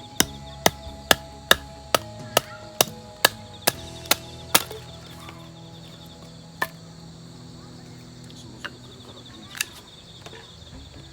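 A run of about eleven sharp, evenly spaced strikes, a little over two a second, then three single strikes further apart, like a hammer or mallet hitting wood or metal. Crickets chirp steadily underneath.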